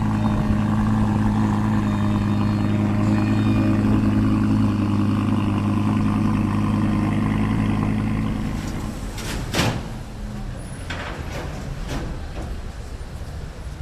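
A vehicle engine running steadily with a deep, even hum, which drops away about eight and a half seconds in. A few short, sharp noises follow in the quieter street sound.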